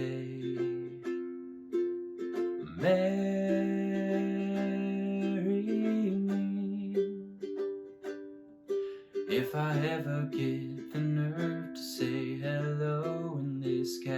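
Ukulele strummed through the song's chords at a slow tempo, with a man's voice singing long held notes over it.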